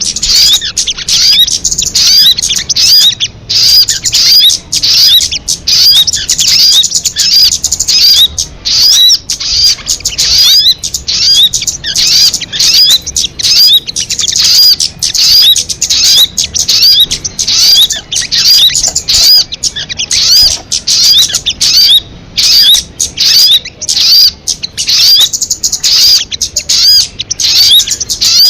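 Recorded song of a sogon kamade bird: a loud, unbroken run of rapid, high chirping notes, each sliding in pitch, several to the second.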